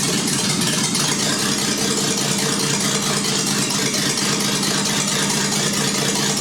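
An engine running at a steady idle.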